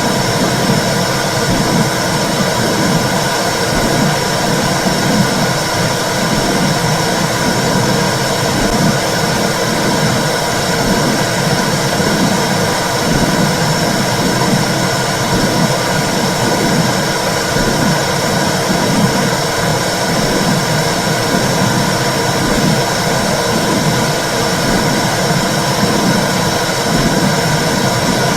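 Womb sound for soothing babies: a loud, steady whooshing rumble with a regular low pulse, like blood flow and a heartbeat heard from inside the uterus.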